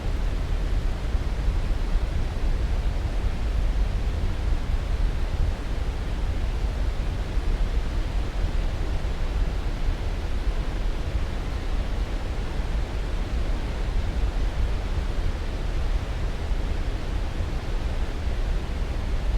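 Steady, unchanging noise from a continuous sleep-aid track, heaviest and deepest in the low end and thinning toward the highs, with no events or changes.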